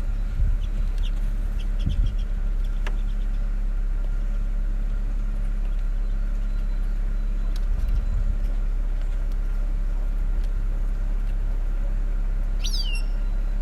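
Steady low mechanical hum, with a few brief high chirps from small finches about a second in and one sharp falling call near the end.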